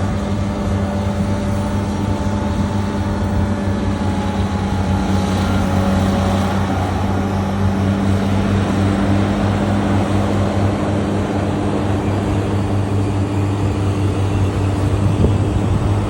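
Komatsu PC850 excavator's diesel engine running steadily, a constant low drone. A fainter higher tone joins about nine seconds in.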